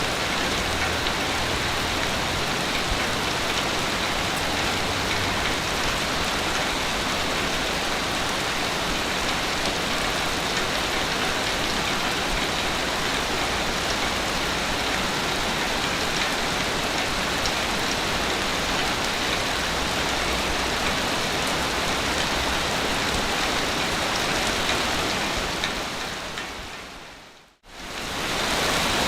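Ocean waves washing on a beach: a steady, dense hiss of surf. Near the end it fades down to silence and comes straight back in, like a loop or edit point.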